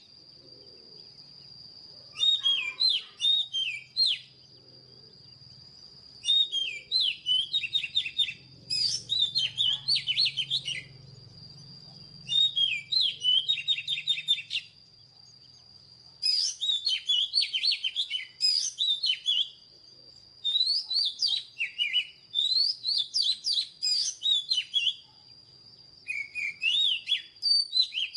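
Oriental magpie-robin singing in repeated phrases of varied whistles and trills. Each phrase lasts about two to four seconds, with short pauses between, over a faint steady high-pitched tone.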